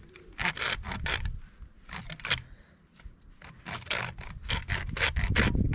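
A knife blade scraping and shaving along a thin stick of wood in a series of short, uneven strokes, with a brief pause in the middle, as the stick is shaped into a chopstick.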